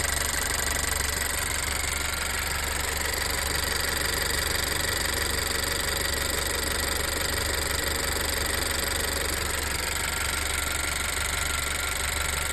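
Honda CR-V's warm 1.5-litre turbocharged four-cylinder engine running steadily, with no ticking now after a dose of Motorkote and Marvel Mystery Oil; the owner had suspected ticking valves.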